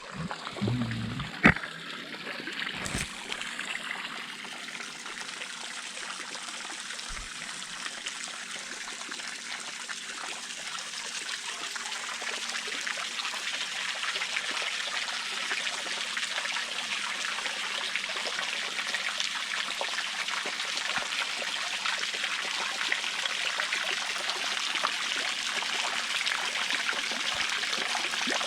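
Steady stream of water falling and splashing from an Intex 28089 waterfall, growing slightly louder over time. A few short knocks sound in the first three seconds.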